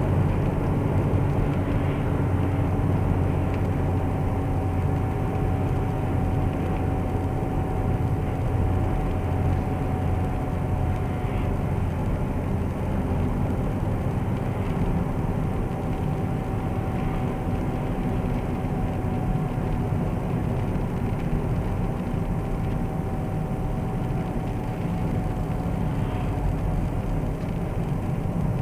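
Cabin noise of an Opel Astra H estate driving at speed with the windows shut: a steady low drone with a thin whine held through it that slowly falls in pitch. This is the unexplained howl the owner is chasing, which he says is distinct from the engine and from the quiet Michelin Primacy 3 tyres.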